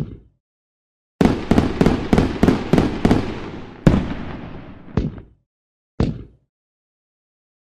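Fireworks sound effect. A rapid string of sharp bangs, about three a second, comes after a short gap, followed by three single bangs about a second apart, each dying away. The track then cuts to silence.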